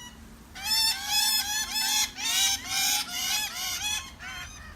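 Lorikeets calling: a dense, almost unbroken run of rapid, high-pitched chattering calls from several birds, starting about half a second in.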